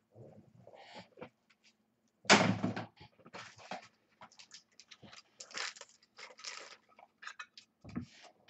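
Trading cards and their packaging being handled: irregular rustling, sliding and clicking, with a loud thump about two seconds in and a softer one near the end.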